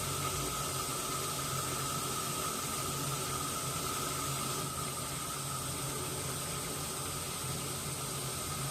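Washing machine running: a steady hiss with a steady high whine and a low hum, easing slightly a little past halfway.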